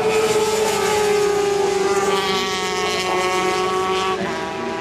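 400 cc supersport racing motorcycles at high revs, engine note sliding slowly down in pitch, with a brief break near the end before the note carries on.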